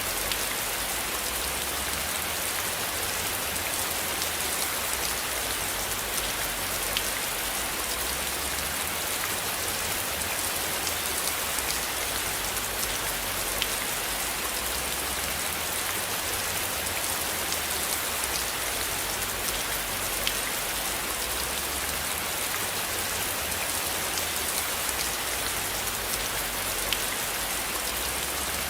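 Steady rain falling on a surface, an even hiss with scattered sharp drop ticks and a low rumble underneath.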